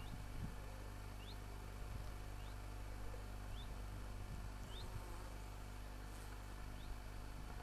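A bird repeating a short, high, rising call about once a second, over faint steady background noise.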